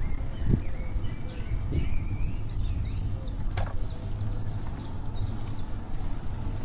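Small songbirds chirping and trilling repeatedly, over a steady low rumble of wind on the microphone while riding a bicycle.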